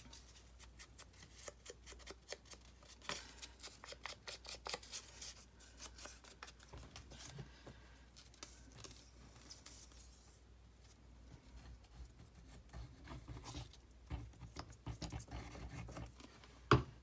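Scissors snipping and craft paper being handled: a run of small clicks and rustles, with one sharper knock near the end.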